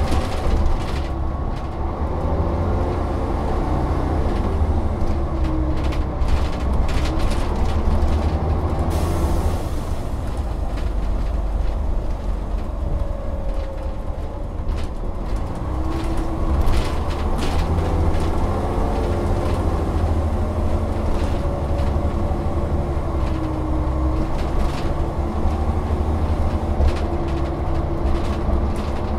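Volvo Olympian double-decker bus engine running under way, with a heavy low rumble. The engine note rises and falls several times as the bus pulls away and changes gear, over frequent short rattles.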